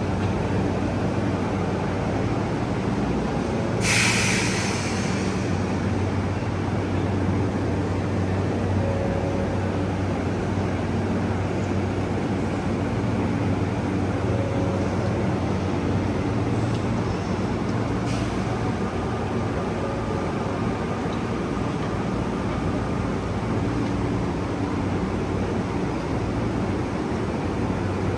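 Diesel limited express train idling at the platform, a steady low rumble, with a short hiss of air released from the brakes about four seconds in.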